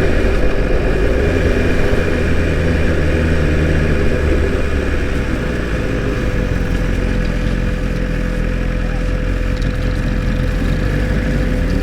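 BMW S1000 RR inline-four engine running steadily while the bike is ridden, a constant low hum with a held tone above it.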